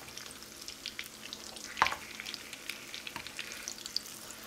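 Potato cakes shallow-frying in hot vegetable oil: a steady sizzle with many small pops. One sharp click about two seconds in as the spatula works under a cake to flip it.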